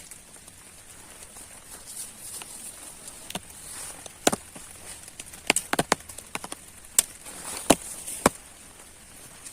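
A series of about eight sharp, irregular knocks, starting about four seconds in and clustered near the middle and end, over a steady high hiss.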